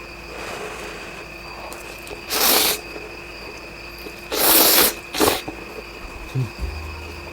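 Instant noodles being slurped in three loud airy bursts: one about two seconds in, a longer one about four and a half seconds in, then a short one right after. A faint steady hum sits underneath.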